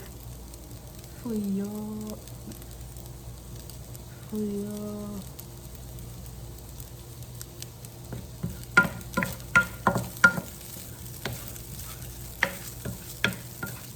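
Egg fried rice being stir-fried: a spatula knocking and scraping against the pan in quick, irregular strikes from about eight seconds in, over a faint sizzle. Two short hummed voice sounds come earlier.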